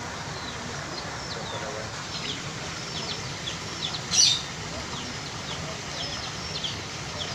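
Birds chirping in the background with many short, high calls, and one louder, sharper high call about four seconds in.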